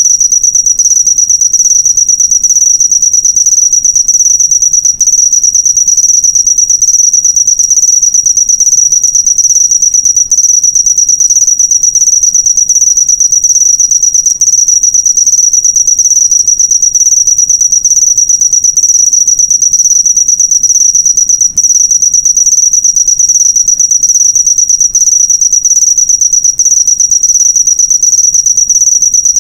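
Cricket chirping loudly and without pause: a high, steady trill of rapid pulses. It is a cricket recording played as masteran, a tutor track for songbirds to copy.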